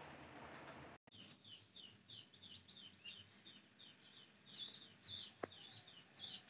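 Faint chirping of small birds: many quick, short chirps one after another. A single sharp click comes about five and a half seconds in. The first second is quiet room noise, ending in an abrupt cut.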